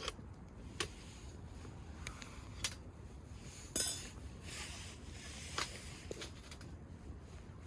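Metal camp cookware clinking and knocking as it is handled: about four separate knocks, the loudest and most ringing one about four seconds in.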